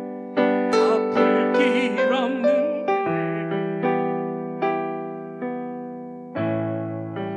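Electric piano playing slow, sustained chords, one struck about every second and left to fade before the next.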